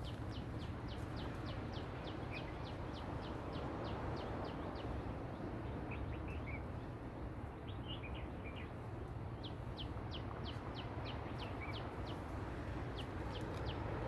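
A bird repeating a short, high, falling note about three times a second, in two long runs, with a few softer chirps from other birds in between. Under it all is a steady, even rushing sound.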